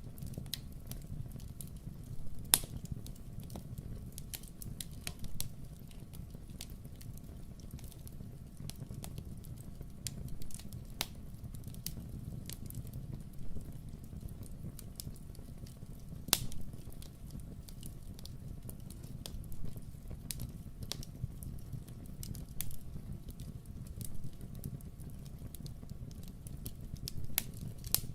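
Wood fire crackling in a fireplace: irregular sharp pops and snaps, a couple of them louder, over a steady low rumble of the flames.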